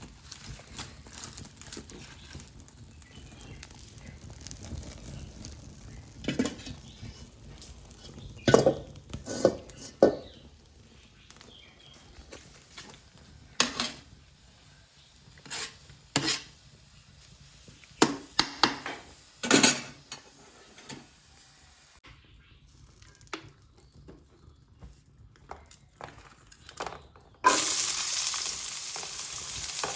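Scattered clinks and knocks of kitchen utensils and pans, then near the end a loud sizzle starts suddenly as food begins frying in hot oil in a pan.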